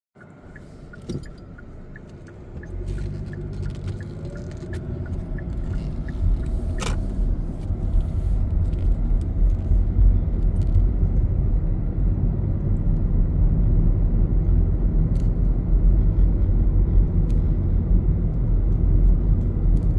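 Car road noise from inside the cabin: a low rumble of engine and tyres that builds over the first eight seconds or so as the car pulls away and gets up to speed, then holds steady. A faint ticking, about two a second, in the first few seconds, and a sharp click about seven seconds in.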